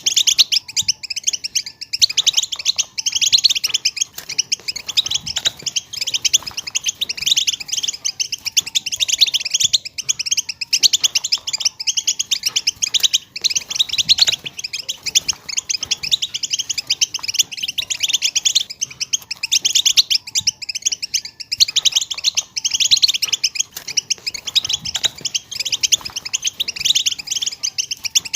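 Several female European goldfinches twittering together: quick, high chirps packed close and overlapping, without a pause.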